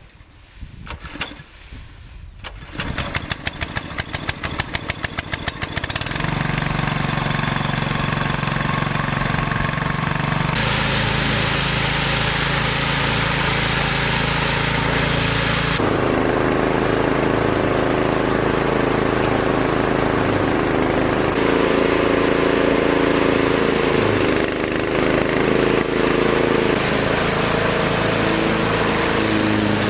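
A small engine starts about two and a half seconds in, its firing quickening over a few seconds into a steady run. It then shifts in pitch several times as its speed or load changes.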